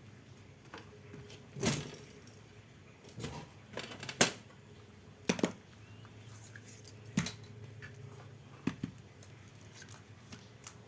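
Irregular sharp clicks and knocks of parts being handled while fitting a replacement electric fan motor, about eight in all, the loudest about four seconds in and a quick double click in the middle.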